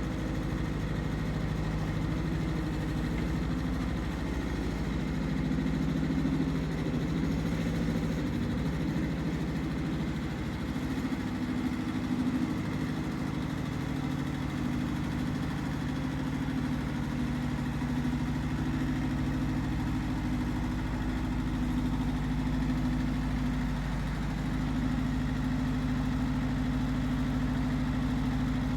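Iseki TX1300 compact tractor's diesel engine running steadily, its pitch shifting slightly about ten seconds in.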